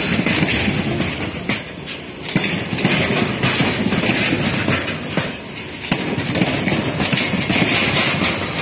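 Freight train of BCNA covered goods wagons rolling past close by: a steady rumble and rattle of wagon bodies and wheels, with repeated sharp clacks as the wheels cross rail joints.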